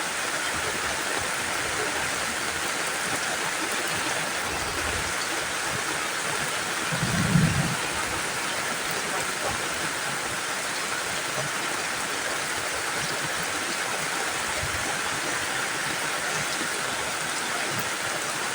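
Heavy rain falling steadily, an even hiss. About seven seconds in there is a brief low rumble or thump.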